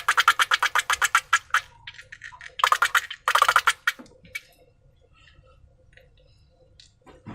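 Rapid crackling clicks, about ten a second, from slime being squeezed and worked by hand, stopping about a second and a half in. Two shorter bursts of clicks follow a second later, then only faint ticks.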